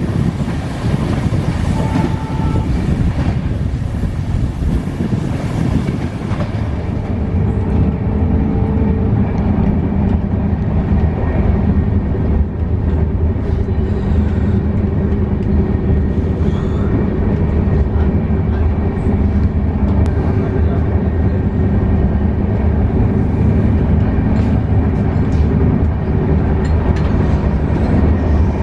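Passenger train running on the rails: a steady, loud rumble, with a hissing upper layer that drops away about seven seconds in.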